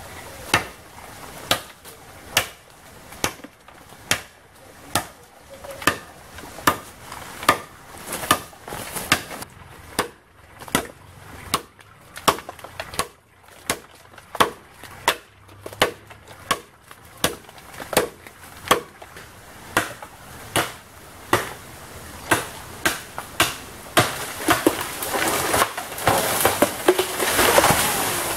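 Bamboo being chopped with a hand blade: sharp strikes at a steady pace of a little more than one a second. Near the end a louder rustling rush swells up among the strikes.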